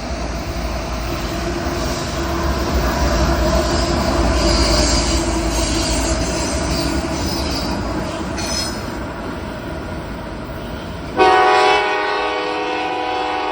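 Approaching CSX diesel freight locomotive and train: a deep rumble of engine and wheels swells, with some high wheel squeal. About 11 seconds in, the locomotive's multi-chime air horn cuts in with a loud, steady chord that holds to the end.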